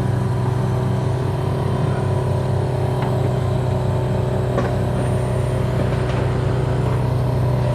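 An engine running steadily at a constant speed, a low even drone, with a couple of faint clicks partway through.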